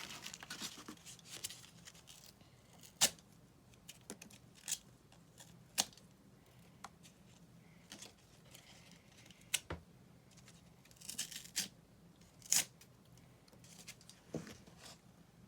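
Cardboard being worked by hand: scattered sharp clicks and snaps with short tearing and rustling sounds, the loudest snaps about 3 seconds in and near 12 seconds.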